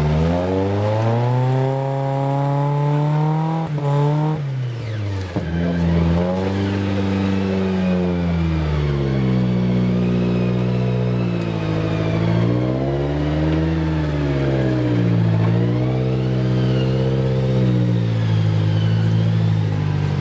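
Engine of an off-road trophy-raid 4x4 revving up and down in several long swells. The pitch climbs for the first few seconds and drops sharply about five seconds in, then rises and falls repeatedly as the throttle is worked.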